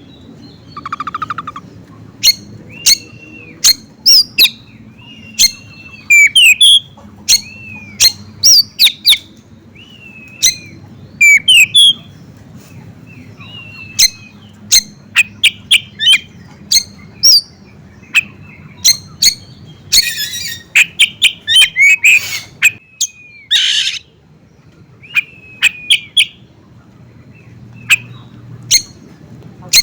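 Songbirds (ciblek gunung prinia, Asian pied starling and oriental magpie-robin) singing: a steady stream of sharp chirps and short whistled, sliding notes, with harsh rasping calls a little past two-thirds of the way in.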